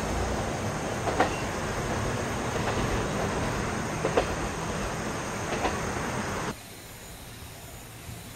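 KiHa 47 diesel railcar running along the line: a steady engine rumble broken by a few sharp clacks. It cuts off suddenly about six and a half seconds in, leaving a much quieter outdoor hush.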